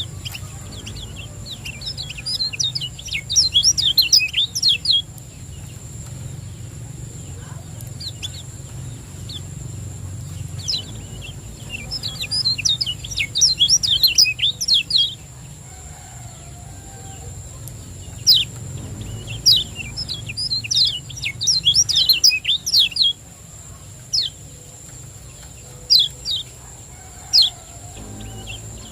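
Kecial kuning (white-eye) singing. Bursts of rapid, high chirping a few seconds long are separated by single sharp chips.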